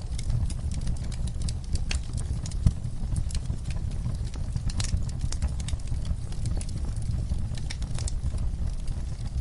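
Wood fire crackling in a fireplace: irregular sharp pops and snaps over a low steady rumble, with one louder pop a little under three seconds in.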